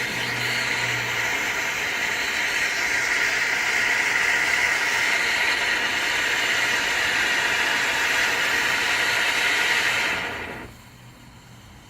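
Ground fountain firework spraying sparks with a loud, steady hiss that stops abruptly about ten and a half seconds in as it burns out.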